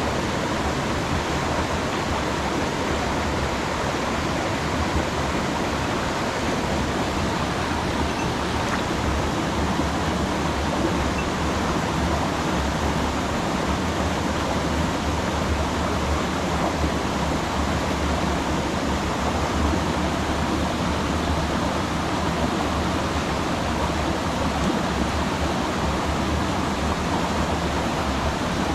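Mountain stream rushing over rocks: a steady, unbroken noise of flowing water.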